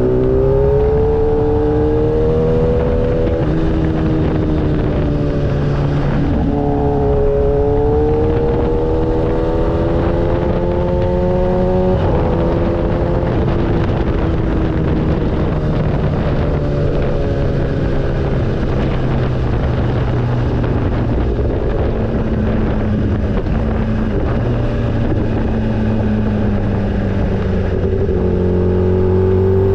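Motorcycle engine running under way with wind rushing past: the pitch climbs through the revs, drops back at a gear change about six seconds in and again at about twelve seconds, then holds steadier while cruising and rises again near the end.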